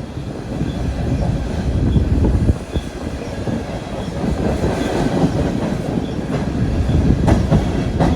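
Railroad train rolling past with a steady rumble, its wheels clacking over rail joints in an irregular stream of clicks.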